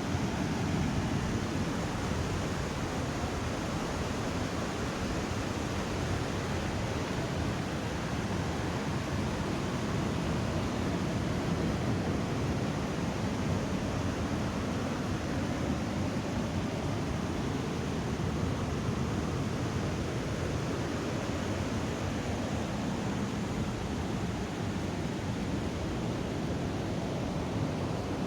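Waterfall water falling and rushing in a steady, unbroken wash of noise.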